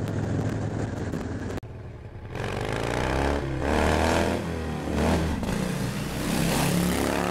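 Harley-Davidson motorcycle engine under way with wind rush. About a second and a half in the sound cuts abruptly, then the engine revs rise and fall repeatedly as the bike accelerates and shifts.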